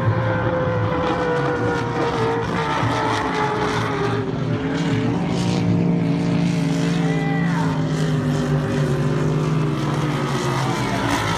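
Offshore powerboat racing engines: a loud, steady drone whose pitch slowly falls as the boats run past.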